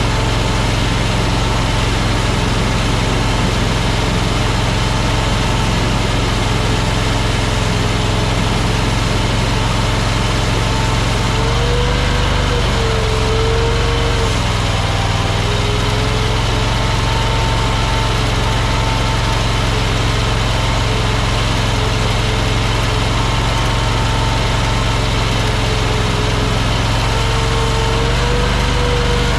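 Engine of an AGT Industrial LRT23 mini skid steer running steadily during a break-in work session. A higher whine rides on it and bends up and down in pitch about twelve seconds in and again near the end.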